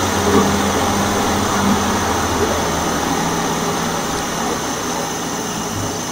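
Supercharged 3.0-litre V6 of a stage 1-tuned 2016 Audi S4 with an aftermarket intake, running at steady revs and heard close to the engine. It keeps an even hum that eases off slightly in the second half.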